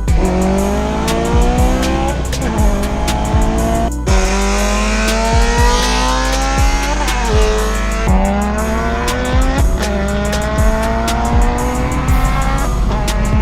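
Car engine accelerating hard through the gears, its pitch climbing and dropping back at each upshift, about five times, with music playing underneath.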